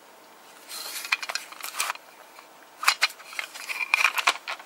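Plastic compact-cassette cases being handled: rattling and a series of sharp clicks as cassettes and their boxes are picked up and moved.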